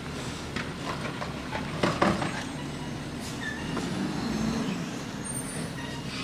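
Garbage truck running during yard-waste pickup, with clanks and knocks over the engine hum and two sharp bangs about two seconds in.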